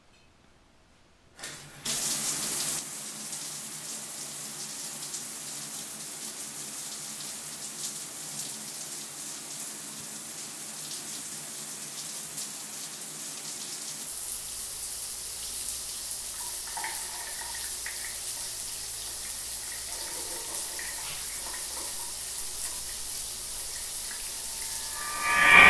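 Water running steadily, starting suddenly about a second and a half in after near silence, with a short, loud rising sound near the end.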